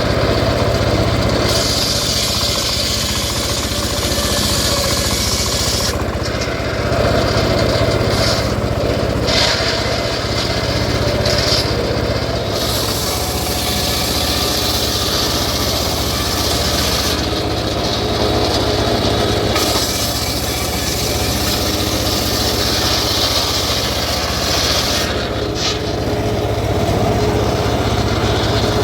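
Homemade engine-driven circular sawmill running steadily as its blade rips through teak. The cutting noise rises in long stretches of several seconds and eases between them, over the engine's steady hum.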